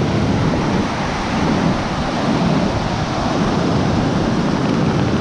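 Steady, loud rush of river water cascading over a waterfall close by.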